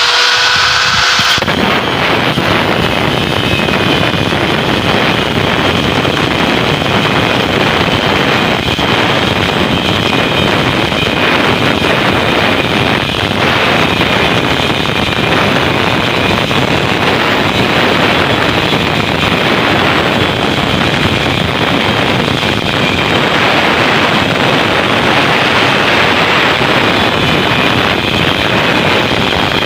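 Angle grinder cutting through the steel shell of a refrigerator compressor. It runs as a loud, steady grinding noise with a faint high whine, after a rising whine as it spins up in the first second or so.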